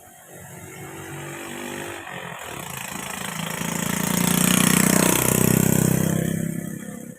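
A motor vehicle's engine grows louder over several seconds, is loudest about five seconds in, then fades away.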